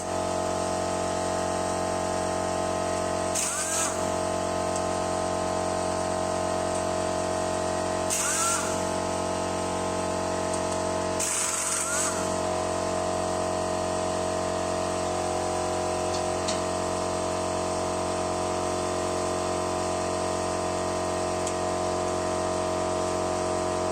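A power tool run in three short bursts, each a brief rising whine with a hiss, as fasteners are undone on a Honda CB750 engine being stripped, over a steady hum.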